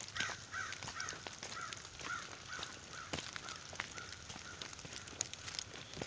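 A bird calling a run of about a dozen short notes, some three a second, falling a little in pitch and fading out after about four seconds. Under it run the steady rush of runoff water and scattered crunching footsteps on gravel.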